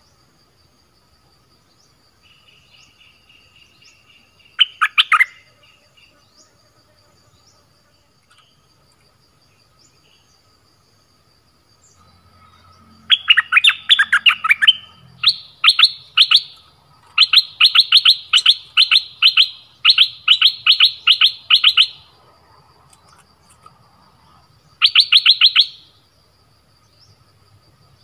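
Caged birds calling from a trap cage: runs of rapid, sharp, repeated notes, about five a second. There is one brief run early, a long chattering stretch through the middle, and one more short run near the end. Faint steady high tones run underneath.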